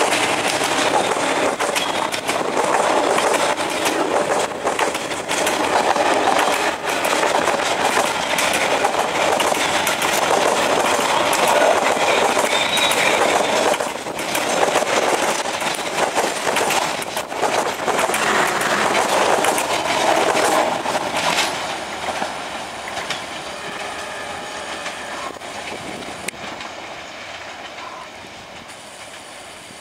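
Passenger train coaches rolling past close by: a steady rushing rumble with the wheels clacking over the rail joints. The sound fades away over the last several seconds.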